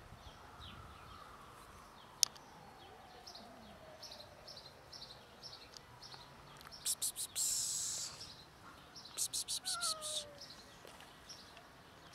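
Birds chirping outdoors in short, high, rapid bursts, the loudest about seven and nine to ten seconds in, with a single sharp click about two seconds in.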